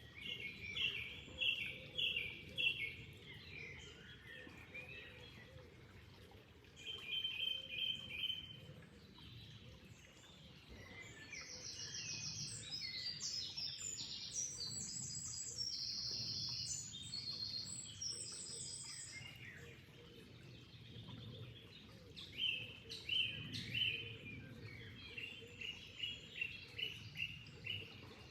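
Songbirds singing: repeated phrases of quick, evenly spaced chirps, with a higher, faster trilling stretch in the middle. A faint steady low rush of water lies beneath.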